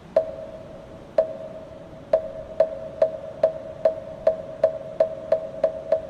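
Moktak, the Korean Buddhist wooden temple block, struck with its mallet: the first strokes come about a second apart, then they quicken steadily to about three a second. Each stroke has a sharp knock and a brief ringing tone.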